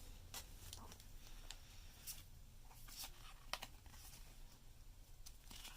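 Faint handling of Pokémon trading cards: soft paper rustles and light clicks as the cards are moved and shuffled in the hands, spread irregularly over a low room hum.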